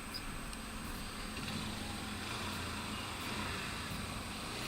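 Honda Hornet 160R motorcycle's single-cylinder engine running steadily at highway speed: an even low hum under a steady haze of wind and road noise.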